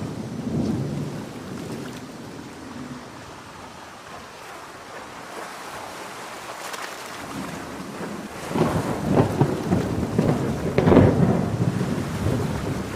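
Heavy rain falling steadily, with thunder: a low rumble in the first few seconds, then a loud crackling thunderclap that rolls on for several seconds from about two-thirds of the way in.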